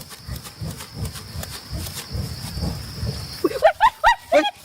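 A dog gives a quick run of short, rising yips near the end, the loudest sound here. Under it there is a low uneven rumble and a steady high-pitched insect tone that stops shortly before the yips.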